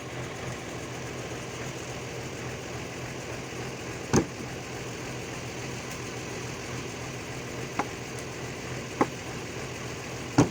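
Old army 4x4 truck's engine running steadily at idle, with a few short sharp knocks or clanks breaking through about four, eight, nine and ten seconds in.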